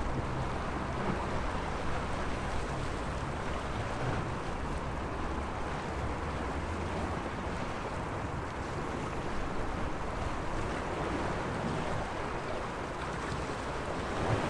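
Sea waves washing steadily against the waterfront, an unbroken rushing wash with a low hum underneath.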